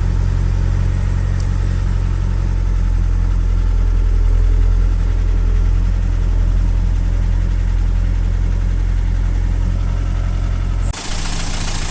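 Vauxhall Frontera's 2.8 four-cylinder turbodiesel idling steadily, purring just after a cold start, having stood unused for about two and a half months. Near the end the deep engine note drops away abruptly and a hiss comes up.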